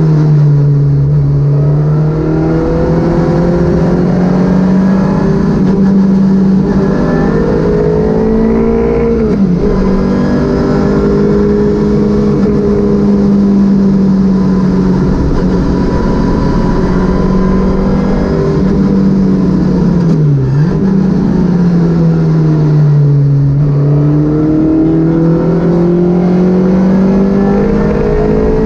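Citroën Saxo VTS rally car's four-cylinder engine working hard, its pitch climbing and falling as the car accelerates, lifts and shifts gear, with a sharp dip in revs about twenty seconds in.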